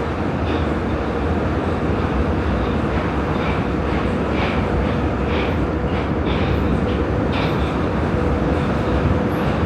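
Prague metro line A train running through a tunnel at speed: a steady rumble with light ticks from the wheels every second or so and a faint steady whine.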